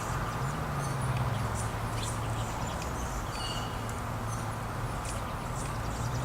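Small songbirds at a feeder chirping with many short high notes and a couple of brief clear whistled notes about halfway through, over a steady low hum.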